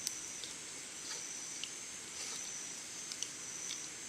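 A steady high-pitched chorus of summer insects, with a few short sharp clicks scattered through it.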